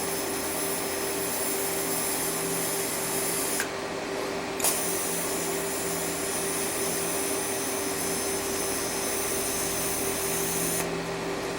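TIG welding arc hissing and buzzing as it welds the end of a stainless steel canister shut. The arc stops about three and a half seconds in, strikes again a second later, and cuts off near the end.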